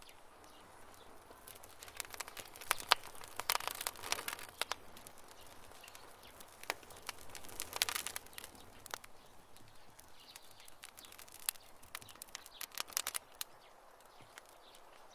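Wood campfire crackling: irregular sharp pops and snaps, bunched most thickly a few seconds in and again around the middle and near the end, over a faint steady hiss.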